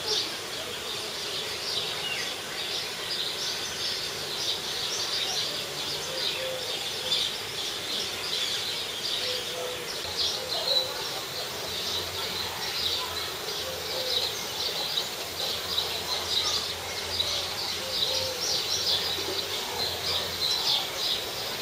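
Dense, steady twittering of many small birds, short high chirps overlapping without pause.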